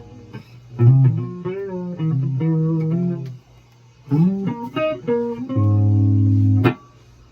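Guitar playing a loose run of plucked notes, some of them bent or slid in pitch, then a loud held note that cuts off abruptly about a second before the end.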